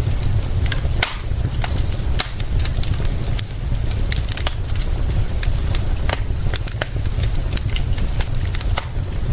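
Wood fire crackling, with frequent irregular sharp pops and snaps, over a steady hiss of rain and a constant deep low rumble.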